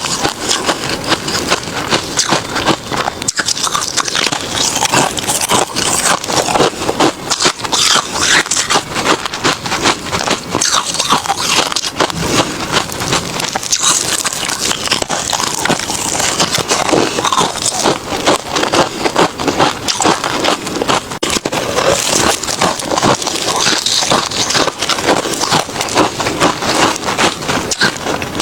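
Close-miked chewing of refrozen crushed ice: a steady run of crunching with dense sharp cracks and no pause.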